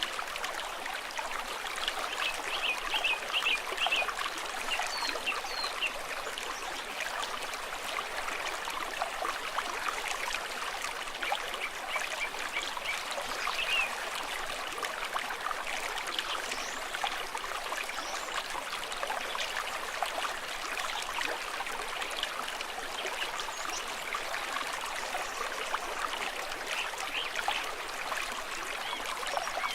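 Stream water running and trickling in a steady, babbling wash, with a few brief high notes about two to four seconds in.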